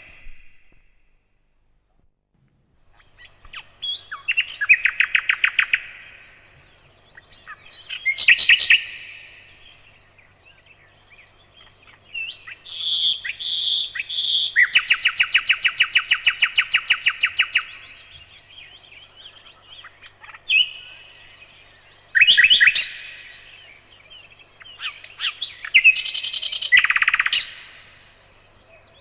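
Nightingale singing: after a short silence, a string of varied song phrases with pauses between them, each made of fast repeated notes. The middle phrase is a long, rapid trill of identical notes lasting about three seconds.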